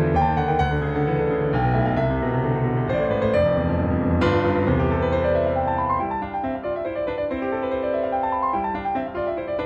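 Background piano music: notes struck one after another, with rising and falling runs in the second half.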